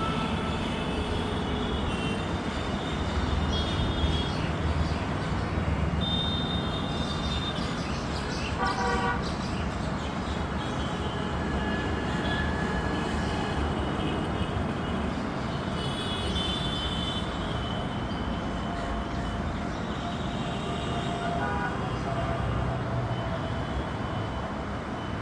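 Steady rumble of road traffic, with short high-pitched tones now and then.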